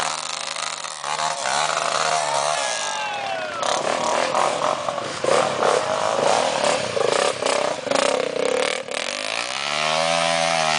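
Trail motorcycle engine revving up and down over and over, its pitch rising and falling, as it is worked through thick mud.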